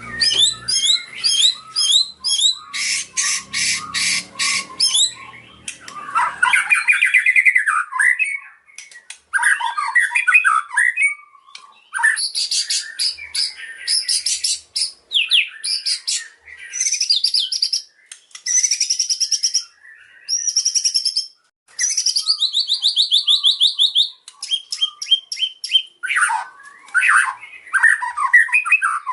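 White-rumped shama (murai batu) singing a long, varied song: rapid trills, fast runs of repeated notes and sliding whistled phrases, in bursts with short pauses between them, its repertoire including mimicked calls of other birds.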